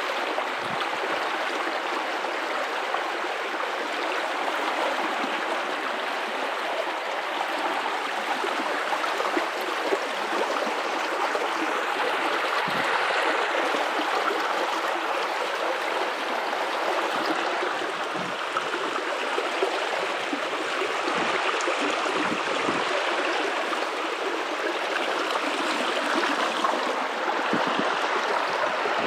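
River water running steadily over rocks, with a constant rushing and gurgling.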